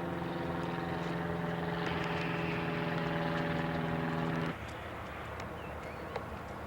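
Small propeller plane's engine droning steadily at a constant pitch, cut off abruptly about four and a half seconds in, leaving wind rumble.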